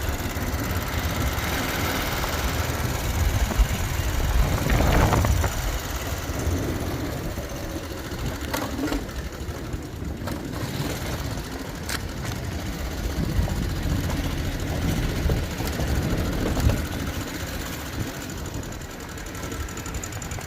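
Motorcycle engine running with a steady low rumble. It swells louder about four to five seconds in, and a couple of sharp clicks come later.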